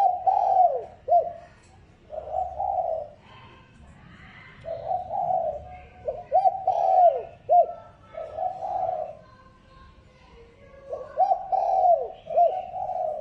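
Spotted dove cooing: phrases of low, repeated coos, several ending in short downward-sliding notes, with pauses between the phrases.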